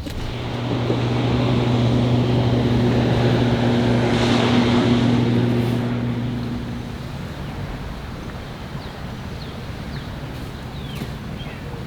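A steady low engine hum over wind noise, fading out after about six seconds.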